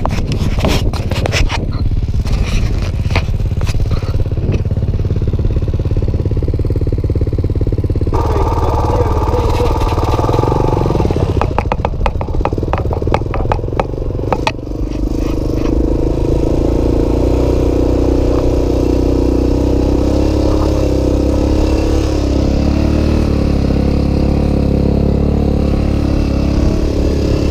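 Honda XR400's single-cylinder four-stroke engine running at a steady, even idle. Through the first half it is mixed with many sharp knocks and rattles.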